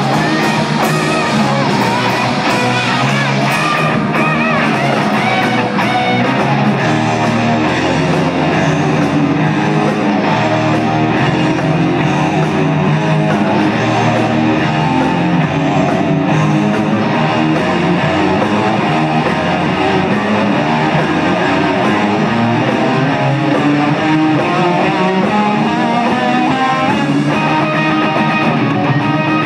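Rock music with loud guitar, playing on without a break.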